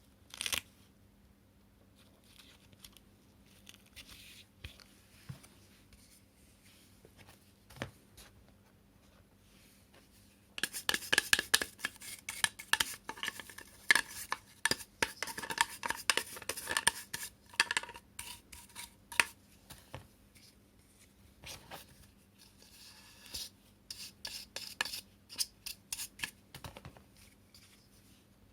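Plastic parts of a cordless cyclone vacuum's dust box being handled and cleaned by hand: one click near the start, then a long run of clattering, clicking and rubbing that is loudest in the middle, followed by a few more scattered clicks. The vacuum motor is not running.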